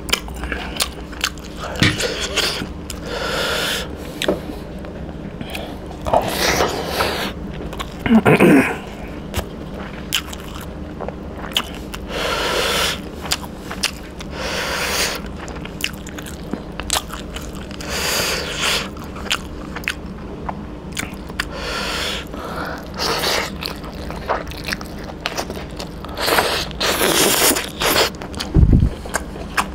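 Close-up eating sounds: a man chewing and biting into mouthfuls of chicken innards curry and rice, in irregular smacking, crunchy bites, with fingers scraping through the rice on a wooden board.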